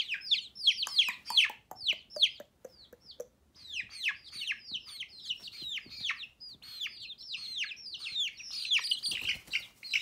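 Baby chicks peeping: a rapid run of short, high chirps, each falling in pitch, several overlapping a second, thinning briefly about three seconds in before picking up again.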